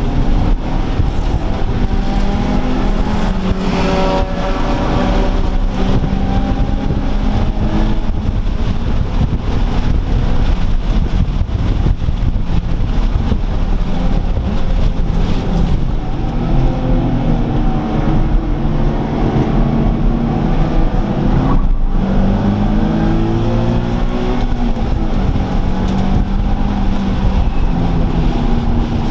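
High-performance car engines accelerating hard and passing, revving up and falling away several times. A loud pass comes about four seconds in, over a steady low rumble.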